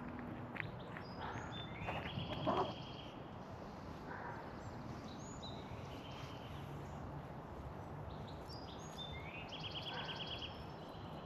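Small birds chirping and singing, with short high calls and quick trills, over a low steady background hum. A brief louder sound comes about two and a half seconds in.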